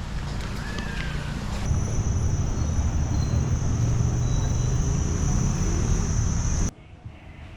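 Outdoor street ambience: a steady low rumble of traffic and wind on the microphone. A steady high-pitched whine joins it about two seconds in, and both cut off abruptly near the end.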